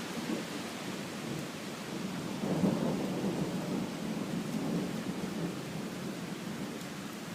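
Heavy rain falling steadily with a low rumble of thunder that swells about two and a half seconds in and rolls on through the rest.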